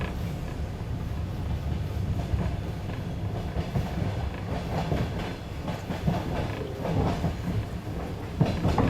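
Passenger train carriage rolling along with a steady low rumble, its wheels clacking over rail joints in irregular knocks, with a sharper knock near the end.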